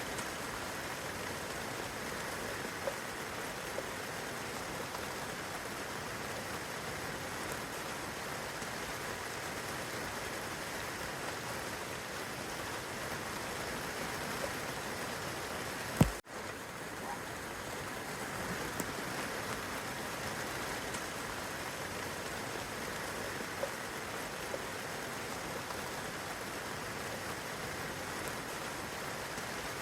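Steady rain falling on leaves, branches and grass, an even hiss. About halfway through a single sharp click cuts in, and the rain sound drops out for a moment before carrying on.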